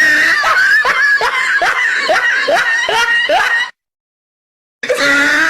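High-pitched, rapid laughing sound effect: a string of quick rising giggles, about three a second. It cuts off abruptly into a second of dead silence a little before 4 seconds in, then starts again near the end.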